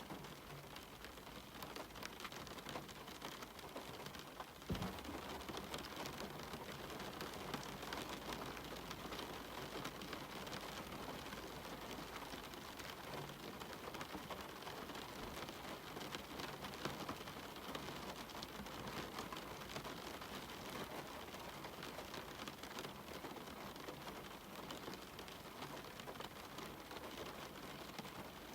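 Steady rain falling, an even hiss with many small drops ticking. One sharper thump stands out about five seconds in.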